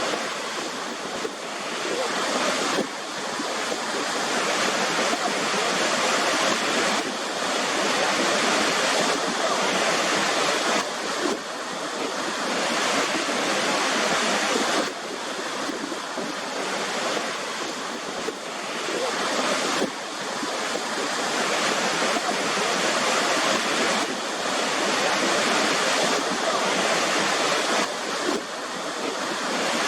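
Waterfall: a steady, dense rush of falling water, with its level dipping and picking up abruptly several times.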